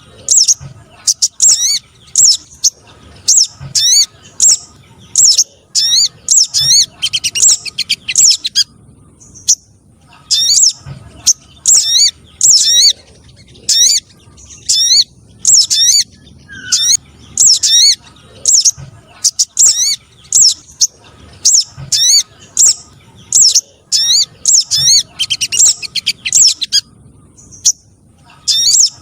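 Bird-lure recording of spiderhunter calls: bursts of rapid, sharp high chirps with short pauses between them, the sequence looping.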